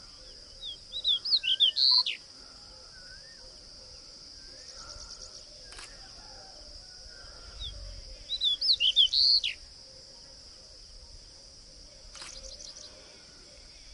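A songbird singing two short phrases of quick, high whistled notes, one about a second in and one near the middle. Underneath there is a steady high hiss and fainter, distant bird calls.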